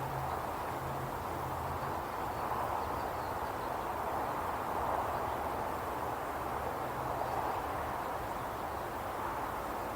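Steady outdoor ambience: an even rushing noise, with a faint low hum coming and going underneath.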